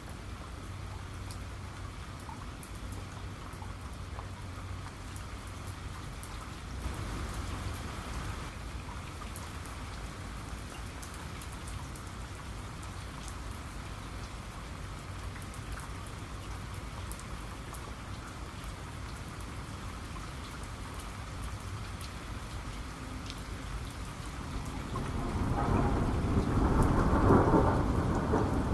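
Steady rain with individual drops clicking, and a low roll of thunder building and swelling near the end.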